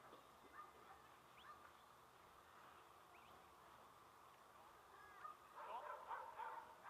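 Faint bird calls: scattered short chirps, then a busier bout of chirping and twittering near the end.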